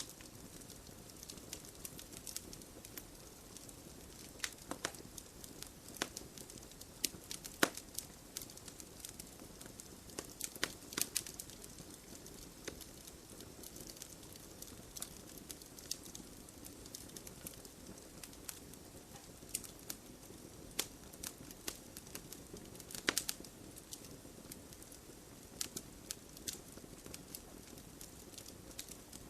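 Wood logs burning in a fireplace: a steady low hiss of flame with irregular sharp crackles and pops, a few louder snaps among them.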